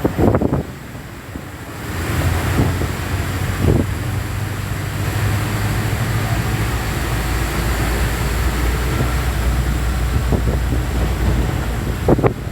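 Vehicle travelling on a rain-wet road: a steady low engine hum under a continuous hiss of tyres and rain, getting louder about two seconds in.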